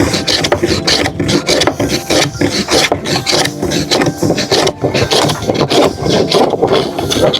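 A hand tool scraping or rasping across wood in quick, repeated strokes.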